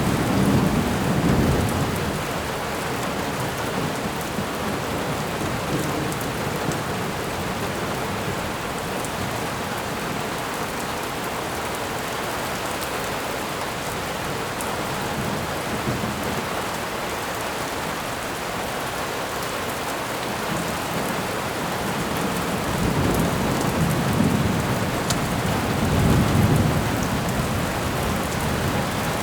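Thunderstorm: steady rain hissing, with low rolls of thunder swelling in the first couple of seconds and again near the end.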